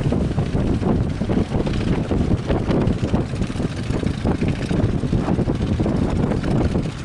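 Strong wind buffeting the microphone, a loud, dense rumble that rises and falls with the gusts.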